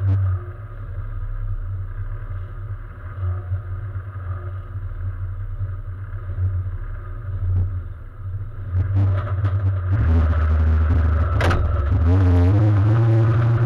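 Competition car's engine idling with an uneven, lumpy beat, heard from inside the cabin. About ten seconds in it gets louder, a sharp clack comes soon after, and then the revs are held and blipped up and down.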